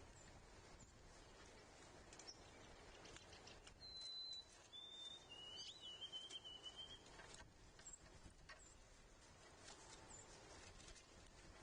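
A songbird whistling a clear phrase of three pure notes, each lower than the last, with the last note held longest, about four seconds in. A few short, high chips and faint ticks sound over quiet outdoor ambience.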